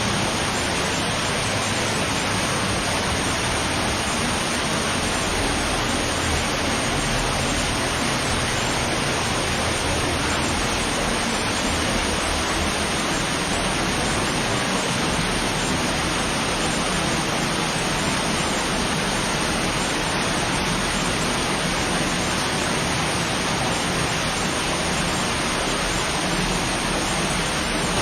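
Steady rush of a fast-flowing underground cave stream, running high.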